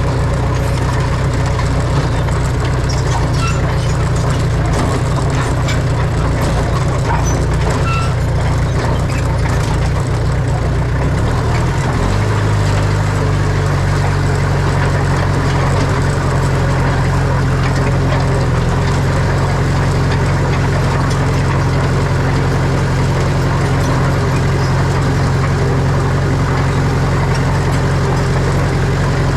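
Heavy diesel engine of earthmoving machinery running steadily under load, its note changing about twelve seconds in.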